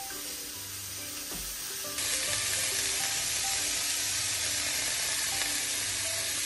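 Minced chicken, shredded cabbage, carrot and red pepper sizzling in a wok as they are stirred with a wooden spatula; the sizzle grows louder about two seconds in. Soft background music with a melody plays underneath.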